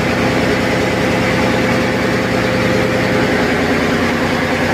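Loud, steady noise of diesel machinery running in a ship's engine room, with a fast even firing pulse underneath and a steady hum.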